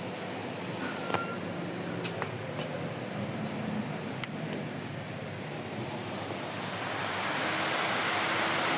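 Ventisol Power 70 cm three-blade 230 W wall fan running on its highest speed: a steady rush of air with a faint low hum, growing louder over the last couple of seconds. Two short clicks, about one second and four seconds in.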